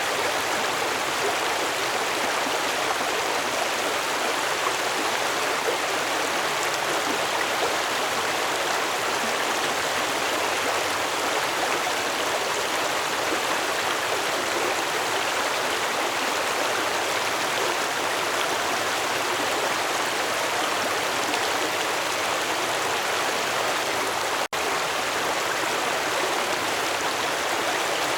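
Stream water flowing, a steady even rush with a split-second gap near the end.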